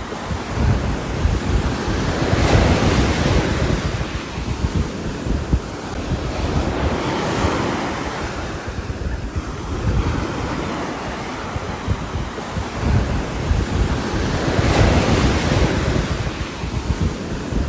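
A continuous rushing of wind and water with a rumbling low end, swelling and easing in slow surges every several seconds, with buffeting like wind on the microphone.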